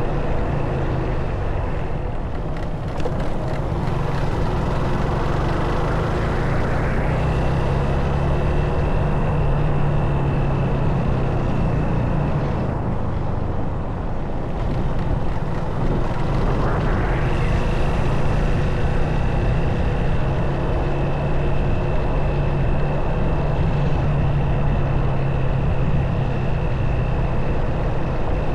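Motorcycle engine running while riding, with a steady rush of wind and road noise. Twice a whine climbs in pitch as the bike speeds up, then holds steady.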